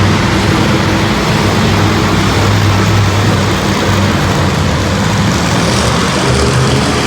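Monster truck engine running loudly in an arena, a low steady drone whose pitch steps up slightly about six seconds in.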